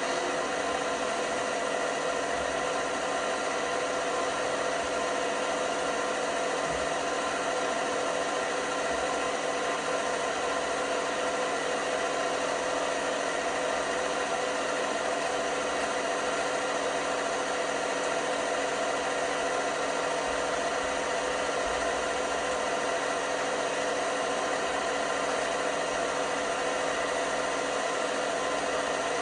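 LG washing machine running steadily, a constant motor whir with several steady tones held over it.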